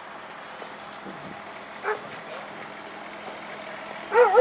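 Steady background hum with a dog whining: a short whine about two seconds in and a longer, wavering whine near the end.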